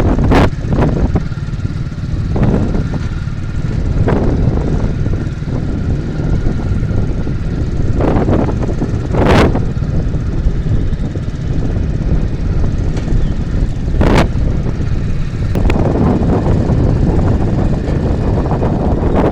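Wind buffeting the microphone: a loud, steady low rumble broken by a few sharp gusts or knocks.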